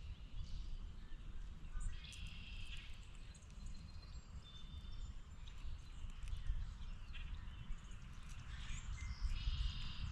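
Wild birds calling in short chirps over a steady low rumble of outdoor background noise, with one cluster of calls about two seconds in and another near the end.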